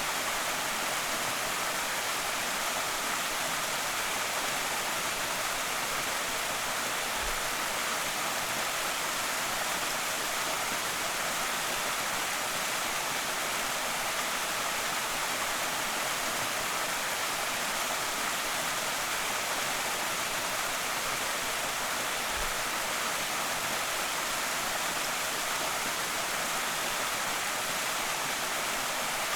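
Creek waterfall pouring steadily: an even, unbroken rushing hiss of falling water, brightest in the upper range.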